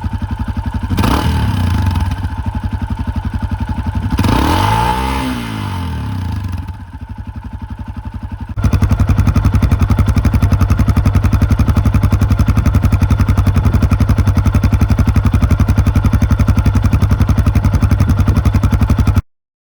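Yamaha Serow 250 single-cylinder engine through a BEAMS Power Trek aftermarket silencer. It is revved up and back down twice in the first few seconds. From about nine seconds in it runs steadily and louder with evenly spaced exhaust pulses, then cuts off suddenly near the end.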